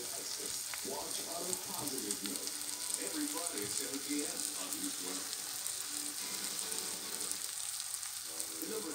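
Shredded cabbage and egg pancake frying in oil in a cast iron skillet, a steady sizzling hiss with fine crackles.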